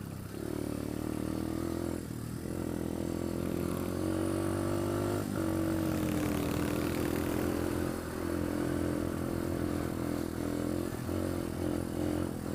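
Pit bike engine running under load as the bike is ridden, its pitch climbing and dropping back at gear changes about 2 and 5 seconds in, then choppier on and off the throttle near the end.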